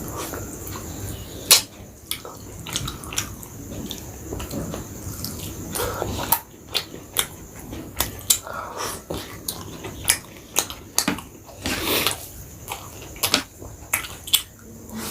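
Close-miked eating of chicken biryani and chicken chaap: chewing and wet mouth sounds with many irregular sharp clicks and smacks.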